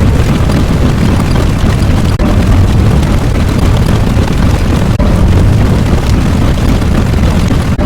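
A loud, continuous, deep rumbling sound effect, like an explosion or eruption rumble, with a brief dip about every three seconds as if it were looping.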